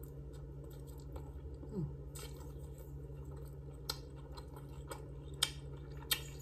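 Close-up mouth sounds of someone chewing a chicken breast sandwich with lettuce: soft wet chewing with a few sharp lip smacks near the end. A steady low hum runs underneath.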